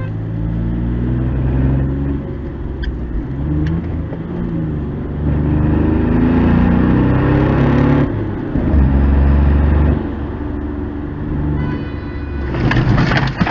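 Car engine accelerating, heard from inside the cabin, its pitch climbing and then dropping back in steps as it changes gear, over road noise. A brief loud noisy burst comes near the end.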